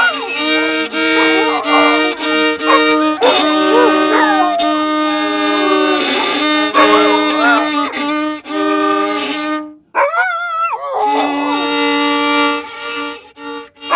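Violin played badly on purpose: scratchy held notes with sliding, wobbling pitches over them, and a brief break about ten seconds in.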